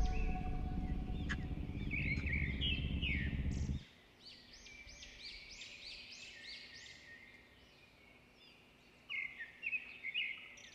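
Small birds chirping in quick runs of short rising-and-falling notes, with a lull and then a last flurry near the end. Under the first few seconds there is a low rumbling drone that stops suddenly about four seconds in.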